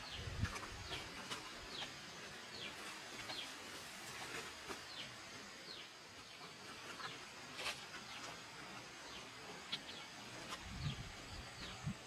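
A bird calling over and over in short falling chirps, a little under two a second, over steady forest background noise. A few low thumps come near the start and again near the end.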